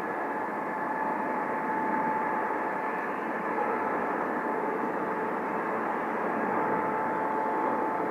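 Boeing 777 twin-engine jet airliner departing, its engines giving a steady jet roar with a steady high whine running through it.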